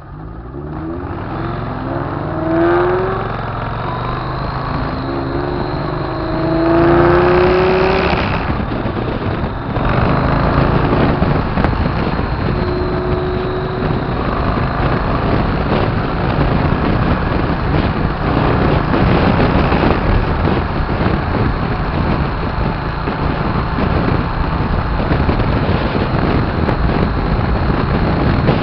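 Motorcycle engine accelerating, its pitch rising twice in the first eight seconds as it pulls through the gears, then running on at steady speed under a loud, even rush of wind.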